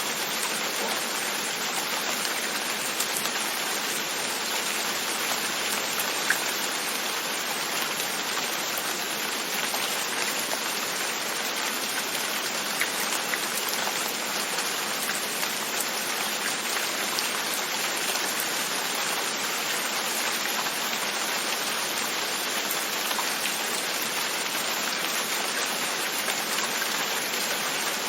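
Steady rain pattering on a window, an even hiss with a couple of louder single drops.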